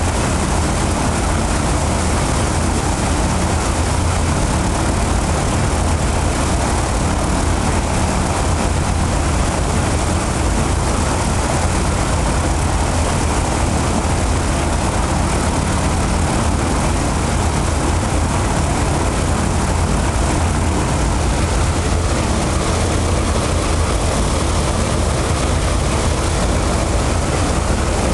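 Ilyushin Il-14's left Shvetsov ASh-82T radial piston engine running at a steady setting during a ground run-up, with a deep rumble and no change in pitch or level.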